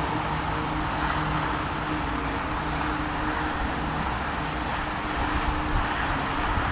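Freight train backing slowly, giving a steady rolling rumble with a low, even engine hum underneath.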